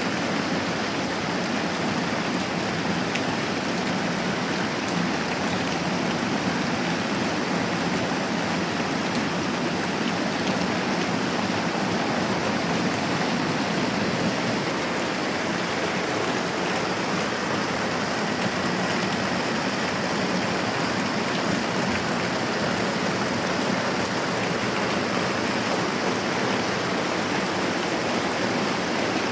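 Moderate rain falling steadily, an even, continuous hiss.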